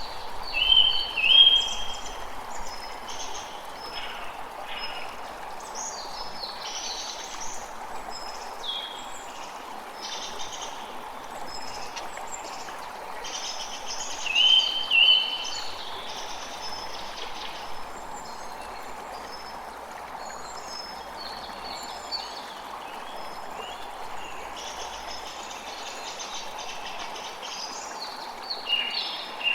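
Creek water running steadily, with forest birds calling throughout. A louder bird call of two short notes comes about a second in and again about halfway through.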